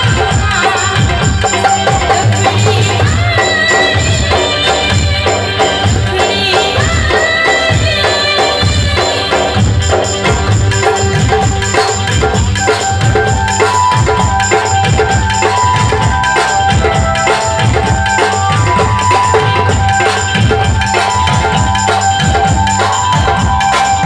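Live dafli band: frame drums with jingles beating a steady, driving rhythm under a melody line that glides in the first half and turns to long held notes in the second half.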